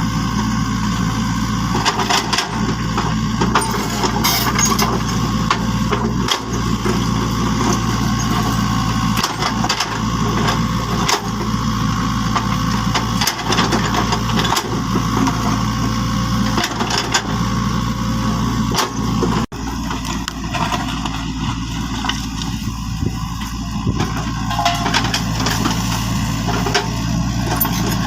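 A small motor hums steadily, with scattered clicks and knocks over it and a brief dropout about two-thirds of the way through.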